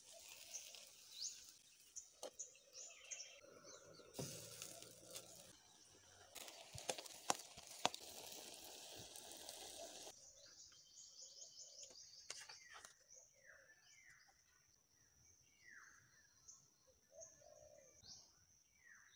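Faint outdoor ambience with small birds chirping repeatedly, including a run of short falling chirps in the second half. In the middle there is a stretch of steady noise with a few sharp clicks.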